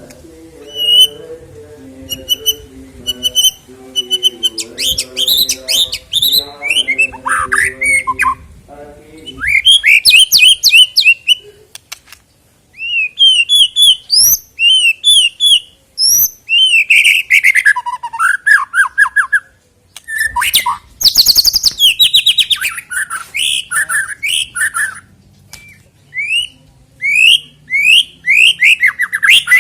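White-rumped shama (murai batu) singing: rapid bursts of loud, varied whistled notes, quick rising and falling sweeps and harsh chattering calls, with short pauses between phrases. A low, evenly pulsing warble sounds underneath for about the first nine seconds.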